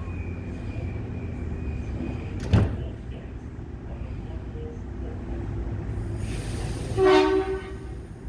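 Electric passenger train at a station platform: a steady low rumble with a faint high whine, a single sharp clunk about two and a half seconds in, and near the end a burst of hiss with a short tone.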